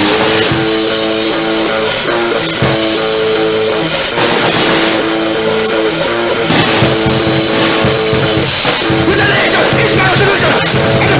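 Loud rock music: distorted electric guitar with a drum kit, playing continuously.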